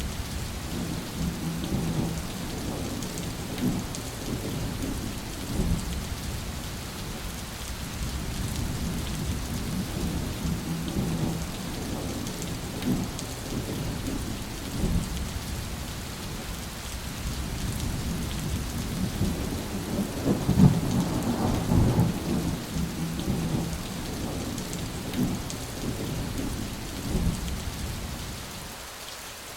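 Steady rain falling, with thunder rumbling low throughout and growing louder about two-thirds of the way through.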